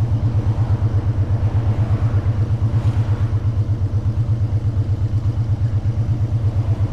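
Motorcycle engine running steadily at an unchanging low pitch, with an even throb of about eight pulses a second.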